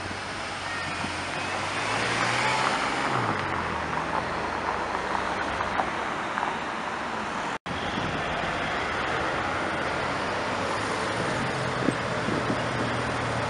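BMW M6 Gran Coupé's twin-turbo V8 pulling away at low speed, its revs rising briefly about two seconds in, with street noise around it. After a short break, a Porsche 911 GT3's flat-six runs steadily at low revs as the car creeps along.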